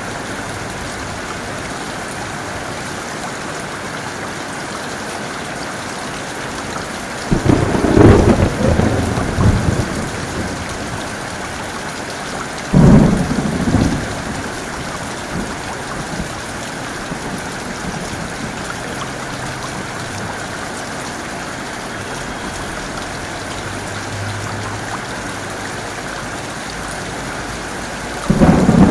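Heavy rain falling steadily, with thunder: a clap rumbling for a couple of seconds about seven seconds in, a second, sharper clap about five seconds later, and a third beginning just before the end.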